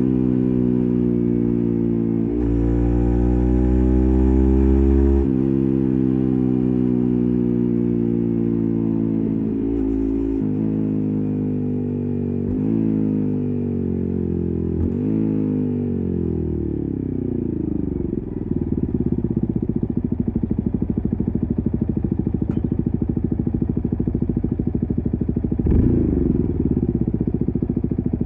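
Yamaha MT15's 155 cc single-cylinder engine through an SC Project full-system exhaust with silencer. It pulls up in revs, then slows with several downshifts, each a brief jump in pitch. It settles to a steady low idle, with one short blip of the throttle near the end.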